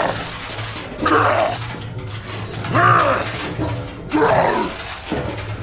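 Short pitched straining cries that rise and fall, three of them about a second and a half apart, over a steady low background music bed.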